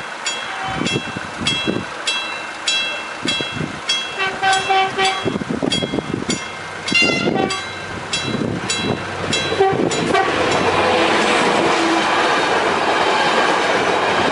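A bell-like warning signal strikes about twice a second while a train approaches, with a short horn note about four seconds in. From about ten seconds in, the loud, steady rush and wheel noise of the train passing takes over.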